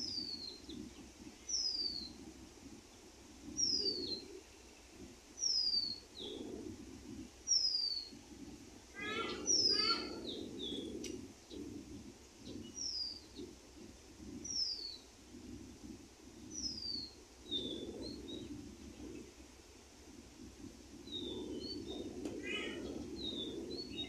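A bird repeatedly gives a short, high whistle that slides downward, about once every two seconds. A lower, rippling call joins in twice, about nine seconds in and near the end, over low, uneven background noise.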